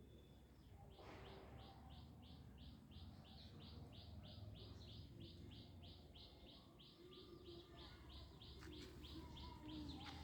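A bird calling in a fast, even series of short, high chirps, about three a second, starting about a second in and keeping up steadily.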